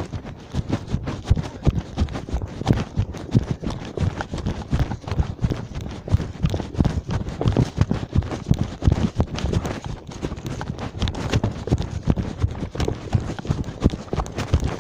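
Footsteps of someone running, quick irregular thuds close to the microphone.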